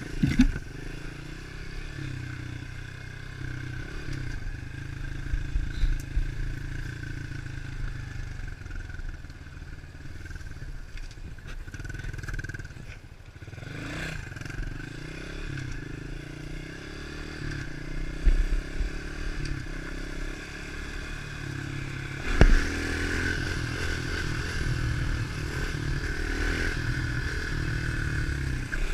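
110cc pitbike's single-cylinder four-stroke engine running as it is ridden, its revs rising and falling, with a few knocks and clatter, the loudest about 22 seconds in.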